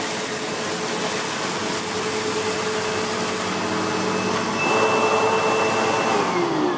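SEBO X4 upright vacuum cleaner running on carpet with a steady motor hum and whine, growing louder about two-thirds of the way through. Near the end the motor pitch starts falling as the vacuum is switched off and winds down.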